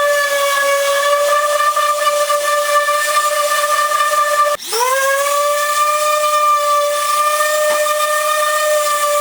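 Power sander running with a steady high whine. About four and a half seconds in, its speed dips sharply and quickly winds back up to full.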